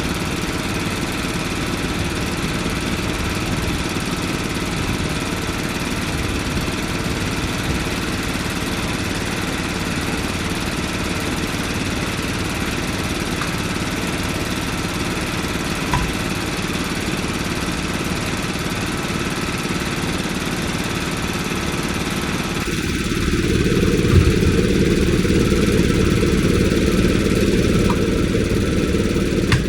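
An engine running steadily. About 23 seconds in, its sound shifts lower and gets louder, with a single knock a second later.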